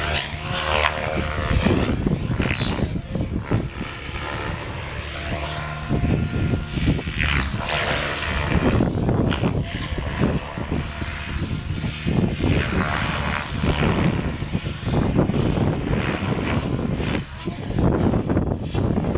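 Radio-controlled model aircraft in flight, its motor and propeller giving a steady high whine that dips slightly now and then. Fierce wind buffets the microphone throughout.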